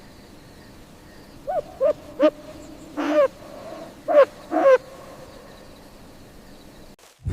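An owl hooting: a run of about six hoots, each rising and falling in pitch, with the fourth drawn out a little longer.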